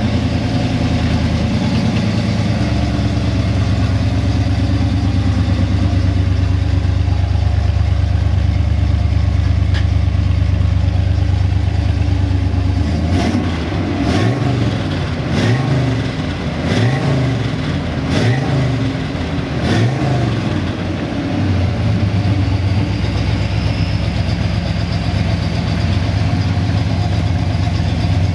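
A 1971 Chevrolet Corvette Stingray's rebuilt, matching-numbers 350 cu in V8 idling. About halfway through it is revved about five times in quick succession, each rev rising and falling, and then it settles back to a steady idle.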